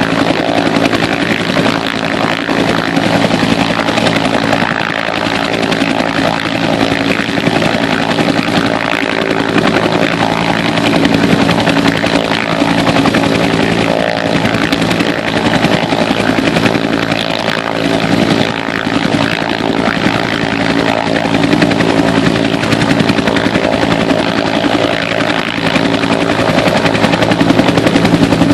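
UH-1 Huey and AH-1 Cobra military helicopters running, a steady engine whine over a fast, even rotor flutter, growing a little louder near the end.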